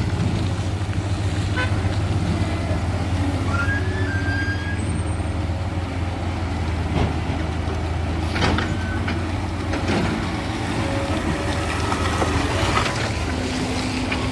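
Heavy diesel engine running steadily at a low, even pitch, with faint short knocks and squeaks over it.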